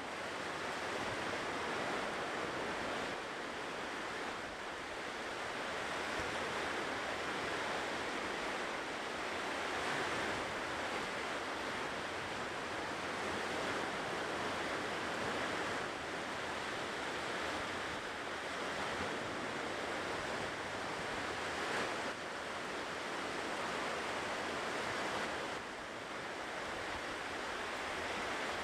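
Ocean waves washing onto a shore: a continuous surf wash that gently swells and eases.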